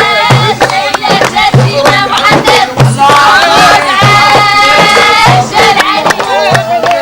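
A group of voices singing together in held notes over a steady low beat that comes a little more than once a second.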